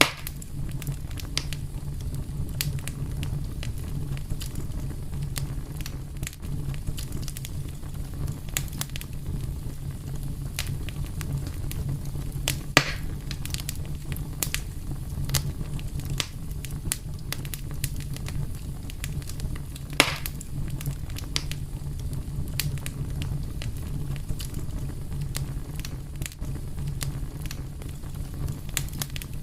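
Wood fire burning with a steady low rumble and frequent small crackles, with two louder pops about a third and two thirds of the way through.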